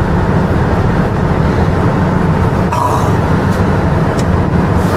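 Car engine idling, a steady low rumble heard from inside the cabin while the car stands in the drive-thru line.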